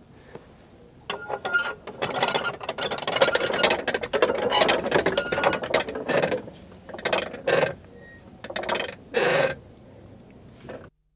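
Prayer wheel being turned by hand, rattling and creaking as it spins. A dense run of rattling clicks starts about a second in, then the wheel gives a few separate short rattles before it stops.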